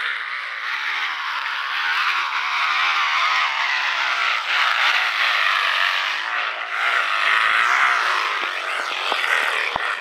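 Plastic water bottle pressed against a bicycle wheel's spokes, buzzing steadily as the wheel turns. The rapid slapping of the spokes gives a motor-like drone that imitates a dirt bike.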